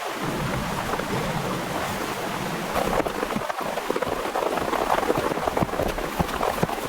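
Heavy rain falling, a dense hiss of drops with many sharp individual drop hits, heavier from about halfway through.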